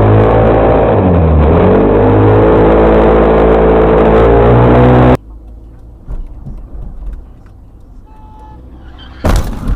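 A vehicle engine running hard and loud. Its pitch drops briefly about a second in, as in a gear change, then climbs back up, and it cuts off suddenly about five seconds in. Quieter road noise follows, with a short loud bang near the end.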